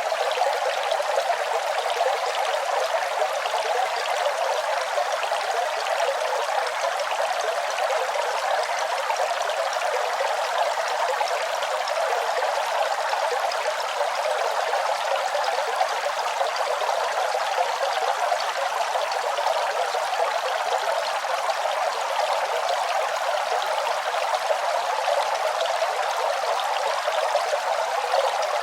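Running water, a steady trickling flow with no change over the whole stretch.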